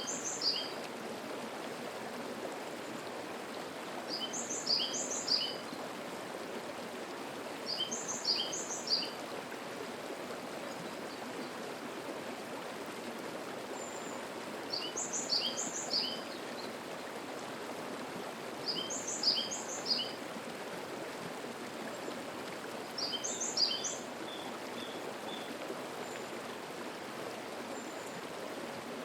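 A mountain stream's steady murmur, with a single songbird repeating a short phrase of high notes every four seconds or so. The bird pauses for longer about halfway through.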